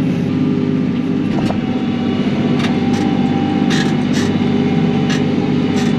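Kioti NS6010 compact tractor's diesel engine running steadily under load while the loader bucket back-drags gravel. Several short sharp clicks or knocks sound over the engine hum.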